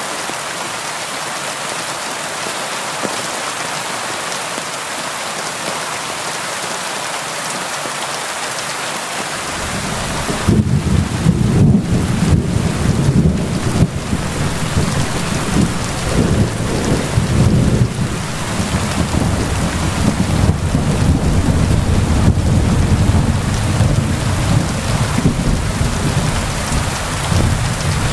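Steady rain falling against a window. About ten seconds in, deep rolling thunder sets in and keeps rumbling, swelling and easing, under the rain.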